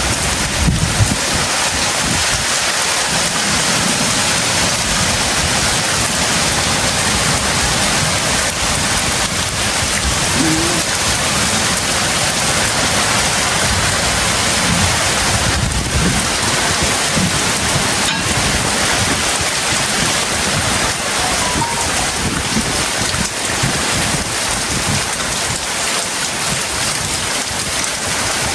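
Heavy tropical rain pouring steadily, with a few sharper knocks of drops on a surface.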